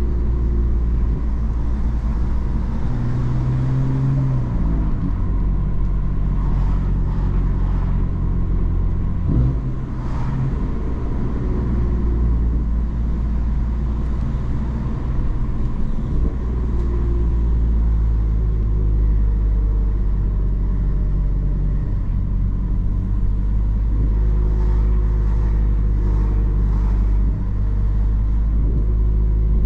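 BMW M3 F80's twin-turbo inline-six with M Performance exhaust, running steadily on the road. Its pitch rises briefly about four seconds in, and there is a short break in the drone about nine seconds in, like a gear change.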